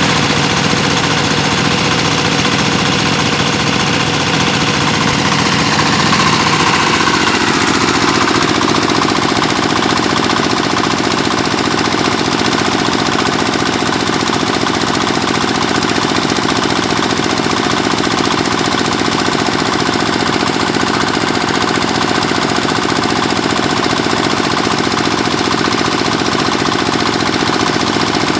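Engine of a well-drilling machine running steadily with a rapid knocking pulse, its tone shifting about seven seconds in.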